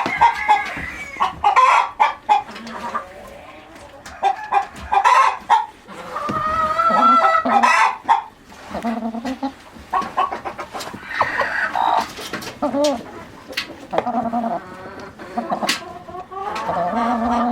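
Chickens clucking and calling over and over, with a longer drawn-out call near the middle and a few sharp clicks.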